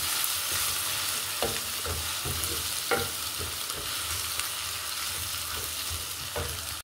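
Sliced onions and ginger-garlic paste sizzling in hot oil in a metal karahi, stirred with a wooden spoon that scrapes and knocks against the pan a few times.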